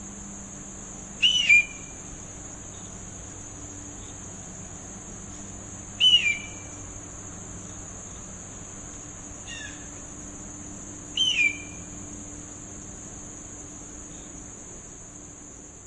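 Red-tailed hawk calling: three loud, short calls that fall in pitch, about five seconds apart, with a fainter one between the second and third. A steady high-pitched drone of insects runs underneath.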